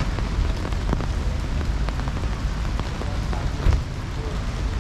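Heavy rain falling steadily, with many single drops ticking close by over a low rumble. There is one louder thud about three-quarters of the way through.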